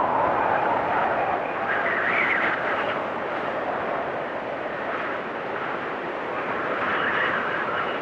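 Storm wind blowing hard and steadily, with a whistling howl that rises and falls in pitch, swelling higher twice.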